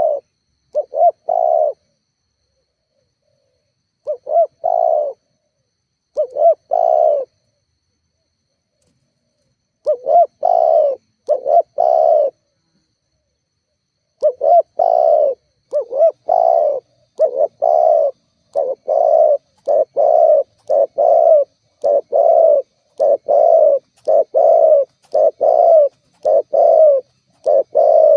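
Spotted dove (tekukur) cooing. It gives short phrases of low coos with pauses between them at first, then calls phrase after phrase almost without a break from about halfway through.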